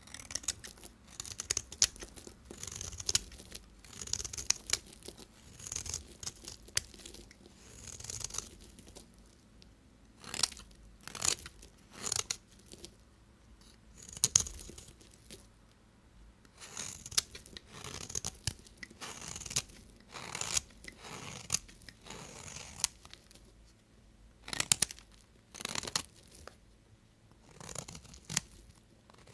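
A knife cutting through bars of soap: a run of crisp, crackling cuts, about one a second, with short pauses between runs.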